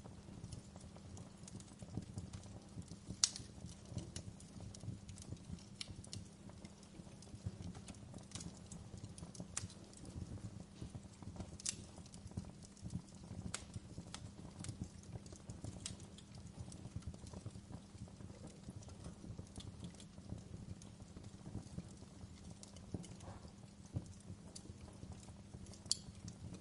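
Wood fire crackling in a fireplace: irregular sharp snaps and pops of burning logs over a low steady rumble, with one louder pop about three seconds in.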